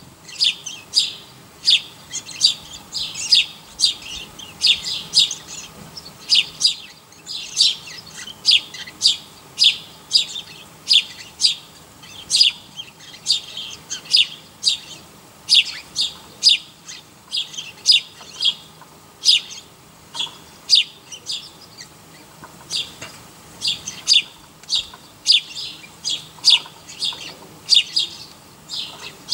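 Birds chirping: short, sharp, high chirps in quick, irregular runs, several a second.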